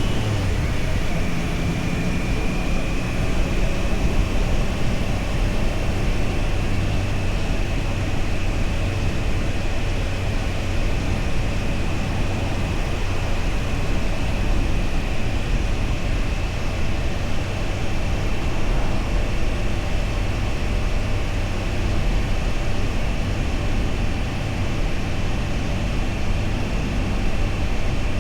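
2025 Triumph Tiger Sport 660's inline three-cylinder engine running at a steady cruise, with heavy wind rush over the microphone.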